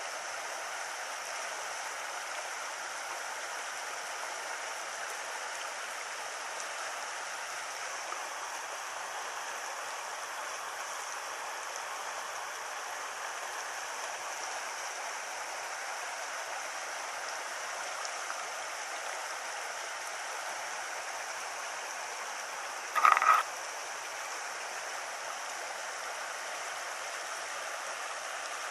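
Steady rush of a shallow, stony stream flowing over rocks. About three-quarters of the way through there is one brief, sharp, louder sound.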